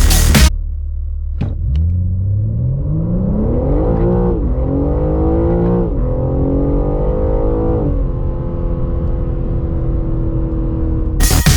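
BMW M3 accelerating hard from a standstill: the engine note climbs steadily in pitch and drops sharply at each of three upshifts.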